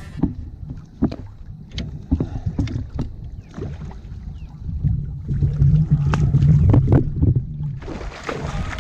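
Irregular knocks and bumps against a kayak while a catfish is being netted, over low rumbling of wind on the microphone and choppy water. The low rumbling grows louder for a few seconds from about five seconds in.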